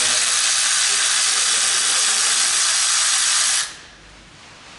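A steady, loud hiss of pressurised gas being released, which cuts off sharply about three and a half seconds in.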